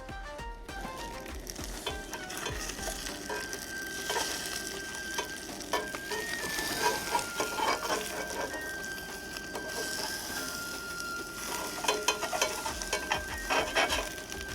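Eggs sizzling as they fry in a pan, with a spatula scraping and clicking against the pan as the food is worked.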